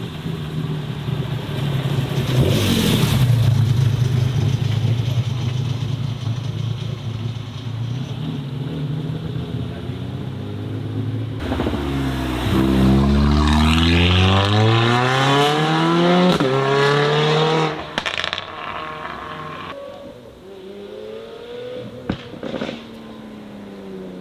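Car engine rumbling at low revs with a short blip of the throttle, then a car accelerating hard, its engine note climbing steadily for about six seconds before the throttle is suddenly lifted. A fainter rev follows near the end.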